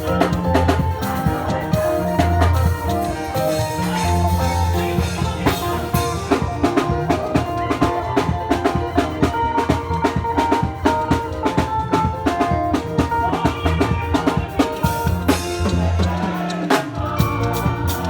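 Church praise music from a band: a drum kit keeps a steady, busy beat under a heavy bass line and held chords. The bass drops out briefly near the end.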